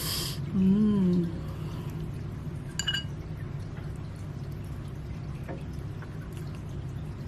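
A utensil clinks once against a bowl about three seconds in, with a faint tap or two later, over a steady low hum. There is a short hiss at the very start and a brief voiced murmur just under a second in.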